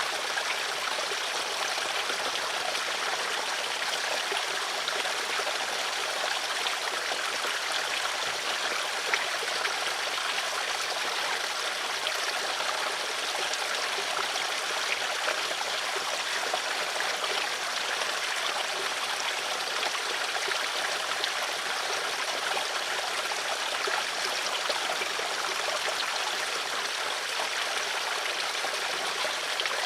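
Flowing stream water running steadily: an even rush with fine trickling and splashing, no pauses.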